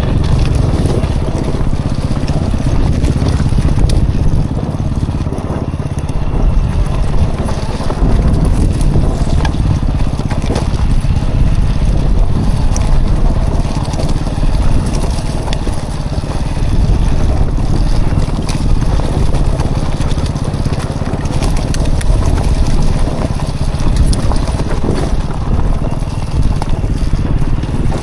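Dirt bike engine running loud and steady as it is ridden along a trail.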